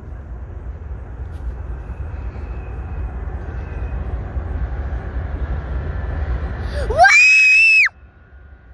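Steady low rumble that grows slowly, then near the end a young girl lets out one loud, high-pitched scream that glides sharply up, holds for about a second and cuts off abruptly.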